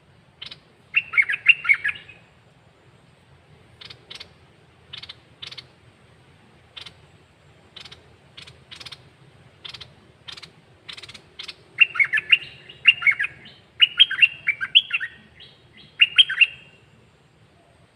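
Caged songbird singing: a short burst of warbling notes, then a string of single sharp chirps. Near the end come several louder warbled phrases.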